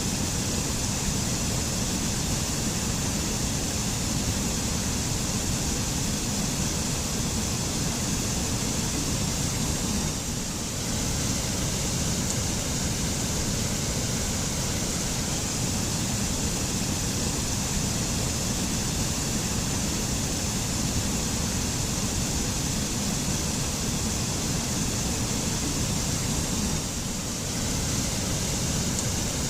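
Mountain waterfall in a forest: a steady rush of falling water, dipping slightly for a moment twice.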